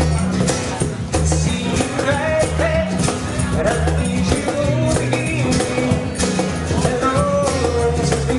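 Live acoustic band playing a song on cajon, guitar and bass guitar, with a steady beat and a walking bass line.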